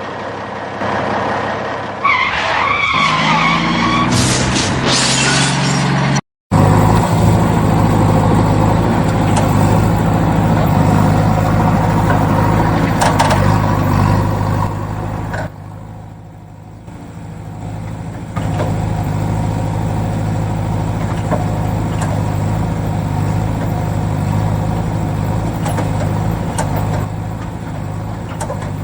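Tractor engine sound running steadily at an even pitch, with a brief cutout about six seconds in and a short drop in level around the middle. A wavering high whine is heard in the first few seconds.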